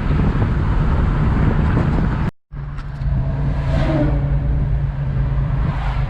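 1985 Chevy S-10 pickup being driven, its engine and road noise heard from inside the cab as a steady drone. The sound cuts out briefly a little over two seconds in, then the engine hum carries on steadily.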